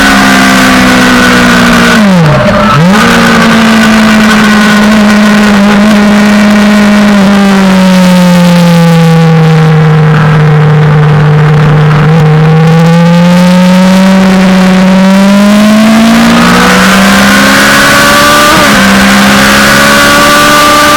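Suzuki GSX-R600 sportbike's inline-four engine running hard on track. Its pitch sags with a quick sharp dip about two seconds in, falls slowly through the middle, then climbs again toward the end.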